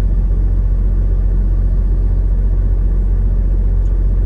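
Semi-truck's diesel engine running, heard from inside the cab as a steady low rumble.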